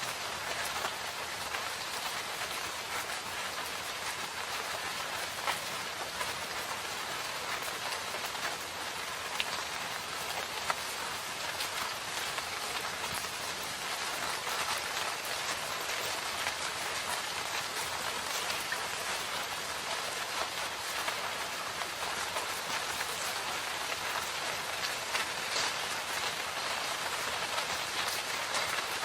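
Steady rain falling in a forest, a dense even hiss of drops on leaves and ground with scattered individual drop ticks.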